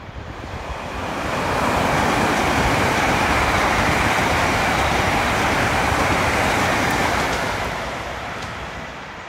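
LNER Azuma high-speed electric train passing through at speed without stopping: a rushing roar of wheels on rails and air. It builds quickly as the train arrives, holds loud for about five seconds, then fades as it runs away toward the tunnel.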